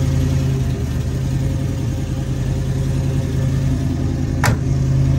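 A 383 stroker V8 idling steadily through headers and a new exhaust, with one sharp knock near the end.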